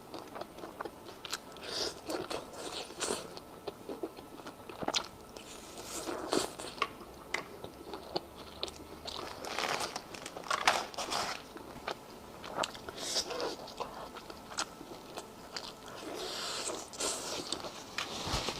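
Close-miked eating of shellfish: irregular crunching bites and chewing, with sharp crackles at uneven intervals.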